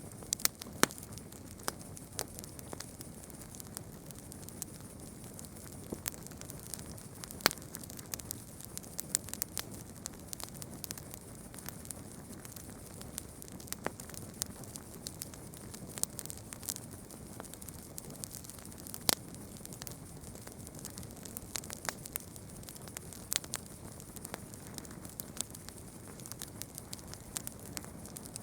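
Campfire burning with irregular sharp crackles and pops over a steady low hiss of the flames.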